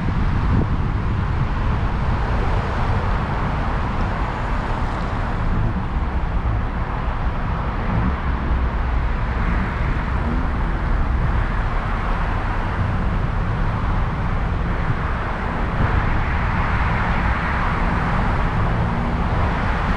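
Steady road and wind noise from a moving Chevrolet Malibu, picked up by a camera mounted on the car's roof: a deep rumble under a constant rushing hiss.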